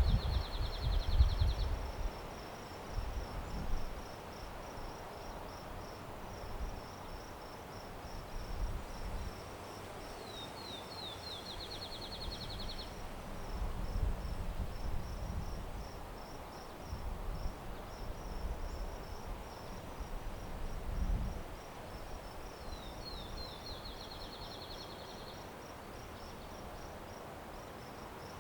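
Insects, likely crickets, chirping in a steady fast pulse throughout. A songbird sings three times, each song a few falling notes running into a quick trill. Low wind rumble gusts on the microphones, strongest at the start and again past the middle.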